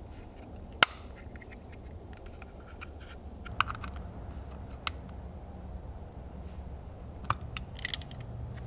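Scattered sharp clicks and light knocks of tools and metal parts being handled, over a low steady hum; the loudest click comes about a second in, and there is a quick cluster near the end.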